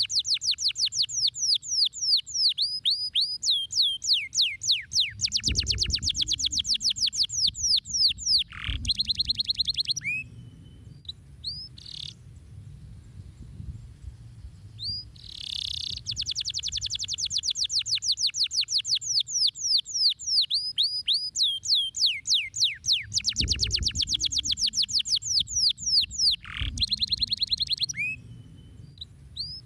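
Domestic canary singing long song phrases: fast trills of rapidly repeated high notes broken by sweeping whistled notes, with a quieter pause in the middle before the song starts again.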